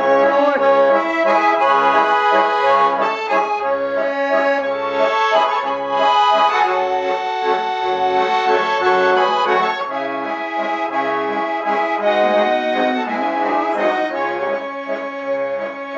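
Garmon, a Russian-style button accordion built by the master Khoroshilov, playing an instrumental interlude: a melody over evenly repeating bass-and-chord pulses.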